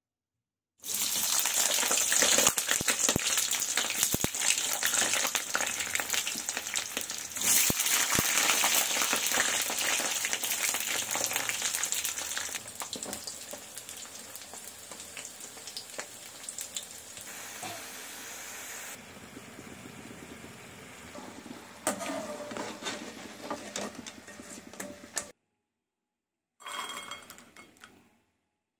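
Potato sticks deep-frying in hot oil in a pan: loud sizzling that starts suddenly about a second in, grows louder again a few seconds later, then gradually dies down as the frying goes on. It cuts off, and a brief separate sound follows near the end.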